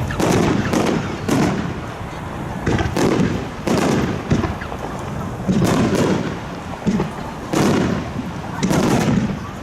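Aerial fireworks shells bursting in quick succession, about a dozen booms each trailing off in a rumbling echo.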